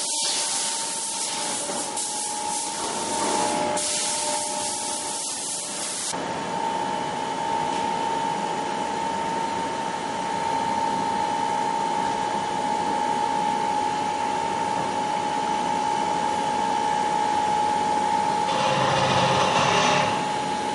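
CNC wood-turning lathe running with a steady whine. A loud hissing cut lasts about the first six seconds, and a shorter burst of cutting comes near the end.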